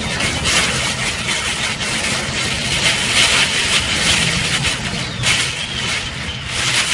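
Typhoon wind and driving rain: a loud, continuous rushing roar that swells and eases in gusts over a low rumble.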